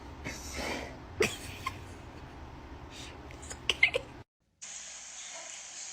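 A pet making a few short vocal sounds, with some sharp clicks. Just after four seconds in, the sound cuts off abruptly, and a steady hiss follows.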